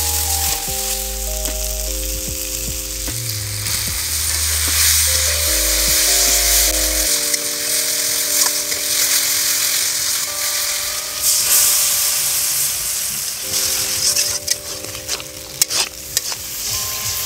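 Chopped tomatoes sizzling in hot oil and spices in a wok while being stirred with a spatula, with a few sharp knocks and scrapes of the spatula against the pan near the end. Background music of long held notes plays underneath, with deep bass notes in the first half.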